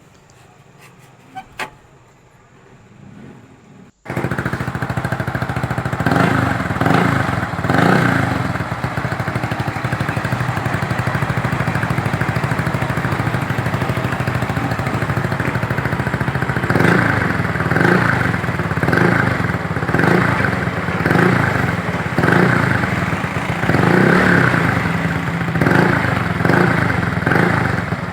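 Yamaha Mio MXi 125 scooter's single-cylinder four-stroke engine running through an aftermarket Replica Pro exhaust, a replica of an SC Project pipe. The engine sound comes in abruptly about four seconds in and idles, with repeated short throttle blips that swell the exhaust note.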